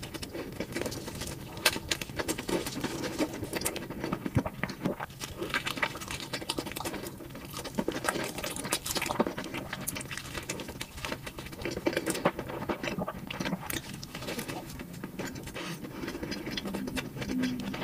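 Close-miked chewing of a burger and fried food: a steady run of irregular crunches, clicks and wet mouth sounds.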